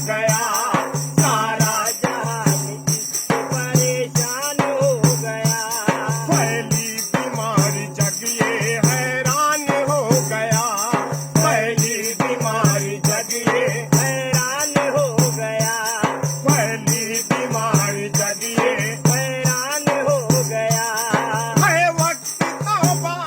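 A song: a voice singing a wavering melody over a steady beat of low drum strokes about once a second, with a jingling rattle throughout.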